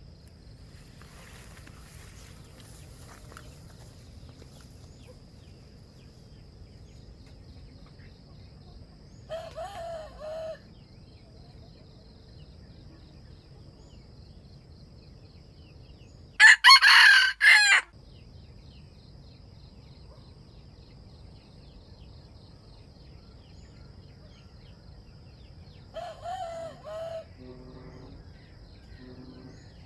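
Junglefowl roosters crowing: three short crows of about a second each, the middle one much louder and closer than the other two. A few low clucks follow near the end, over a faint steady high insect hum.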